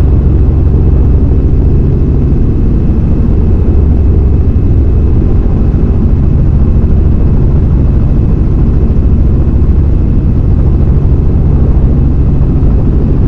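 Helicopter in flight, its engine and rotor running steadily: a loud, dense low drone with a faint high whine over it.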